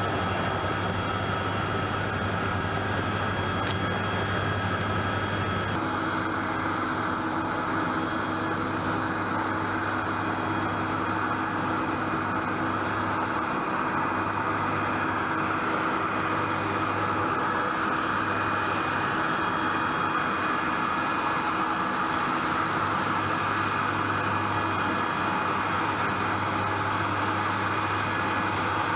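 Aircraft turbine running steadily, a constant whine with several fixed tones over a low hum; its tone changes abruptly about six seconds in.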